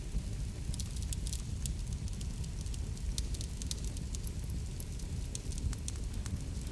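Wood fire burning steadily, with a low rumble and frequent irregular sharp crackles and pops.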